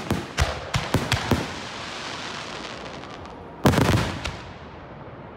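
Aerial firework shells bursting at close range: a quick run of sharp bangs in the first second and a half, then a louder cluster of bangs a little before four seconds in, with a rumbling echo between them.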